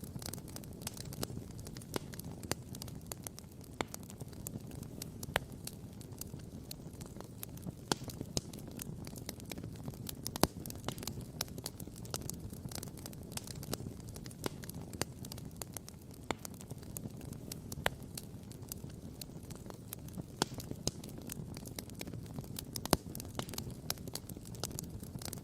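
Wood campfire crackling and popping, with frequent irregular sharp pops, two louder ones about ten seconds in and near the end, over a steady low rumble.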